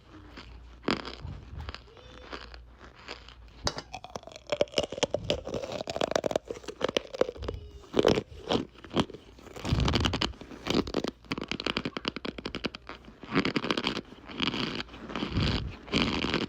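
Compressed cornstarch chunks crunching and squeaking in a dense run of irregular crunches, with a drawn-out squeak about four to seven seconds in.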